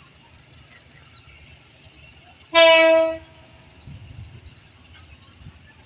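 A train horn sounds one short blast, a single steady tone under a second long, about two and a half seconds in.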